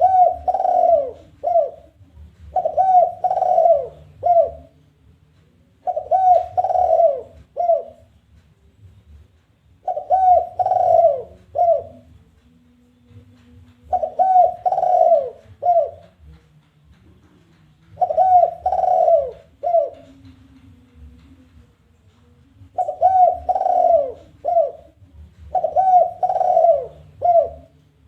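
Spotted dove (tekukur) giving its challenge coo again and again. Each phrase is a few arching coos ending in one short clipped note, and a new phrase starts about every four seconds.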